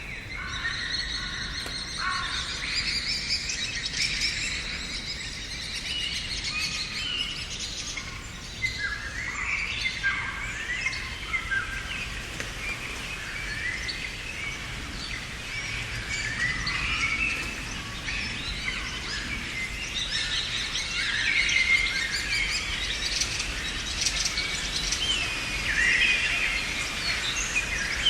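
Several birds singing and chirping together: a busy chorus of short, quick chirps, trills and warbles, over a faint steady outdoor background.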